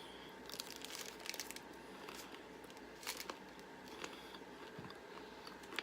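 Faint crinkling and scattered clicks of plastic snack wrappers being handled, in a cluster about half a second in and again around three seconds in.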